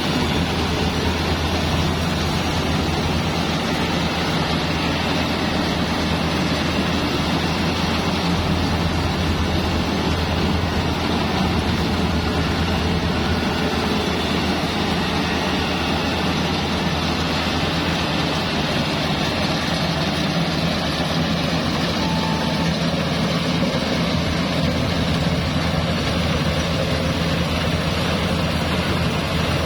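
Engine-driven rice thresher running steadily: a constant low engine drone with a dense rushing noise over it.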